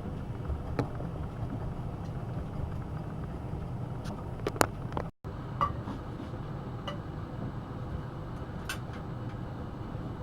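AEG Öko-Lavamat 72520 washing machine running a hot wash: a steady low rumble from the turning drum and motor, with a few light clicks and knocks and a very short break in the sound about halfway.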